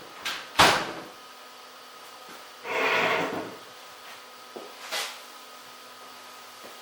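A few sharp knocks near the start, the loudest about half a second in, then a short scraping swell and two lighter clicks, like things being handled and set down, over a faint steady hum.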